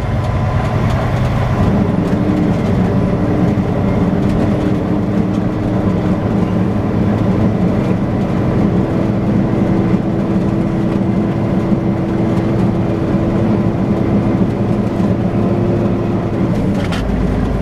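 Semi truck's diesel engine running at low speed, heard from inside the cab: a steady rumble, with a droning hum that comes in about two seconds in and stops shortly before the end.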